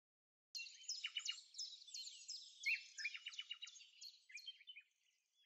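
Faint birdsong: quick runs of short, high chirps, starting about half a second in and thinning out near the end.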